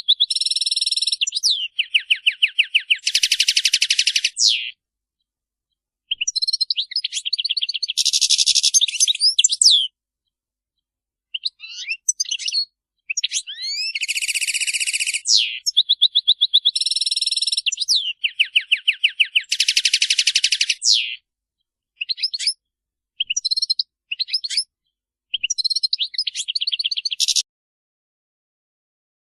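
European goldfinch song: bright twittering phrases with rapid buzzy trills and quick sliding notes, coming in bursts separated by short pauses.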